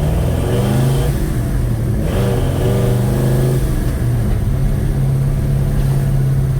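Chevrolet 307 small-block V8 running under way, heard from inside the car, its pitch rising and falling a couple of times as it pulls. Its valve train is loud, sounding like a sewing machine, a noise later traced to mismatched valve springs and retainers.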